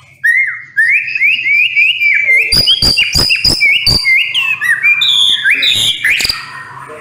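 White-rumped shama singing a fast run of repeated sliding whistled notes, with a string of sharp clicks in the middle of the phrase.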